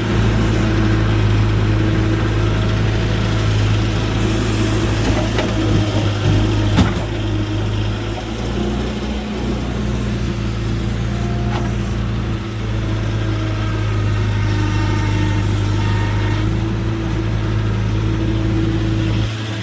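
Tractor diesel engine running steadily at a constant speed, with a few short clicks over it.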